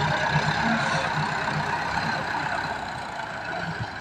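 Massey Ferguson 385 tractor's diesel engine running steadily, a rhythmic low chug that eases off slightly toward the end.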